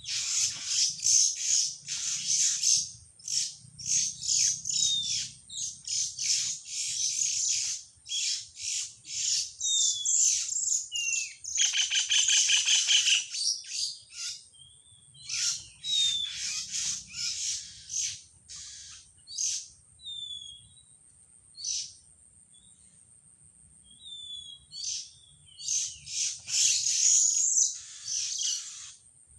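Small birds chirping and calling in quick bursts of short, high notes, with a fast trilling chatter midway and quieter stretches of scattered single calls later. A thin, steady high-pitched tone sounds behind them throughout.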